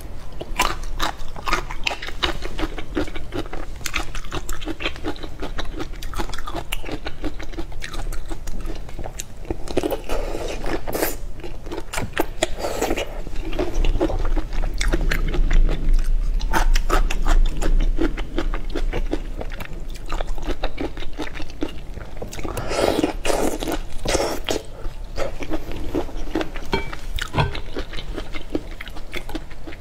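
Close-miked eating sounds: wet chewing and biting of a soy-sauce marinated shrimp dish, with many small mouth clicks and a few louder clusters of chewing, the loudest about three-quarters of the way through.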